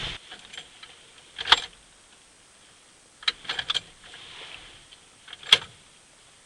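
Keys jangling and a few sharp clicks as a key is worked in a truck's ignition, about four separate rattles spread over several seconds; no engine cranks or catches, because the truck won't start.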